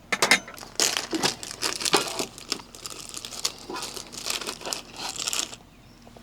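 Crinkling and crumpling of packaging being handled, a dense run of quick, irregular rustles that stops abruptly about five and a half seconds in.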